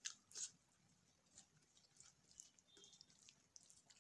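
Faint close-up chewing of a mouthful of rice and kidney-bean curry, with a couple of wet mouth smacks in the first half second and small sparse clicks after.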